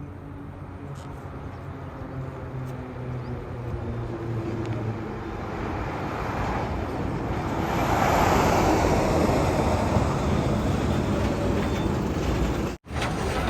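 Diesel engine of heavy earthmoving machinery running, its hum growing into a louder, rougher noise about halfway through; the sound drops out for an instant near the end.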